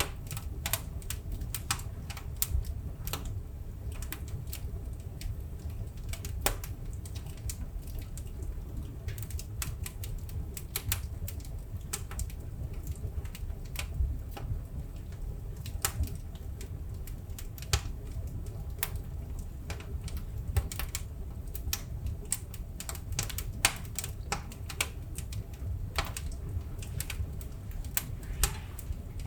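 Wood fire burning: irregular crackles and sharp pops from the burning logs over a steady low rumble of the flames, a few pops louder than the rest.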